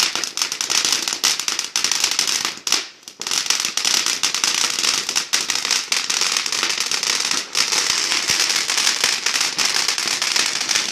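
Fireworks crackling: a dense, rapid run of many small pops and crackles that goes on without a break, dipping briefly about three seconds in.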